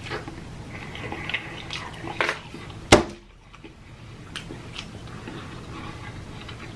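Food and packaging being handled at close range, with soft rustling and light clicks, and one sharp knock about three seconds in.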